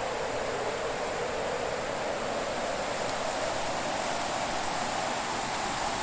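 Fireplace fire burning with a steady hiss and a few faint crackles.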